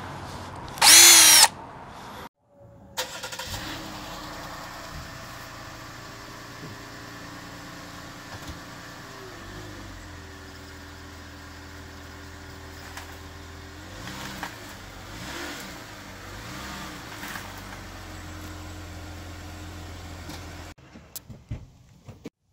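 Jeep Cherokee engine running steadily, with a few brief changes in pitch, cutting off suddenly near the end. About a second in there is a brief, loud, shrill wavering burst.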